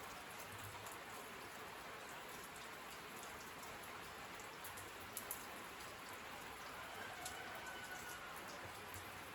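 Steady rain falling, with a few sharper drip taps standing out about five and seven seconds in.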